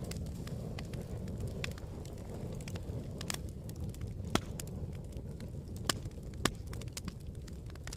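Campfire burning with a steady low rush of flames and irregular crackles and pops, three sharper snaps standing out in the second half.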